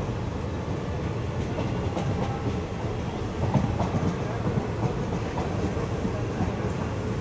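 Moving passenger train heard from on board: the steady rumble of the coach running on the rails, with a few faint clicks of the wheels over rail joints.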